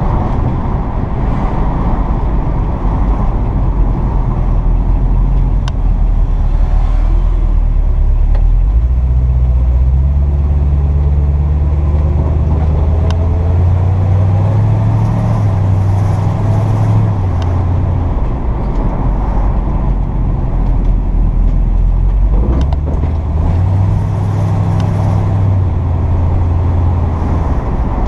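1957 Chevrolet 3100 pickup driving, its engine note climbing under acceleration and falling back at least twice as it changes gear, over steady road noise.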